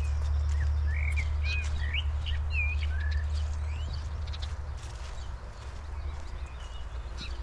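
Small songbirds giving a run of short chirping calls in the first half, over a walker's steady footsteps on the forest floor. A steady low rumble is the loudest sound and eases off about halfway through.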